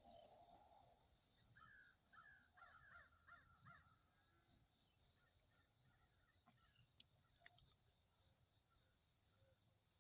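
Near silence: faint outdoor ambience, with a quick run of bird chirps about two seconds in and a few sharp clicks around seven seconds, over a steady faint high hiss.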